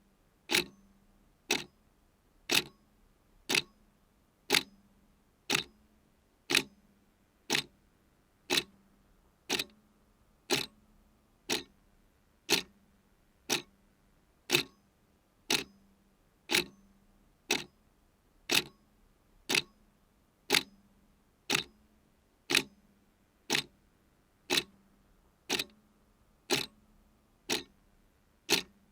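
A clock ticking steadily, about one sharp tick a second, each with a brief low ring.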